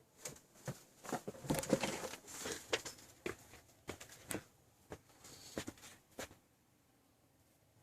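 A run of irregular clicks and taps mixed with rustling for about six seconds, then quiet room tone.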